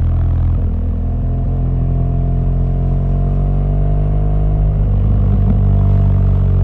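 BMW R1200GS boxer-twin engine running under way, its pitch rising slowly as the bike gathers speed, with brief breaks in the engine note about half a second in and again around five seconds in.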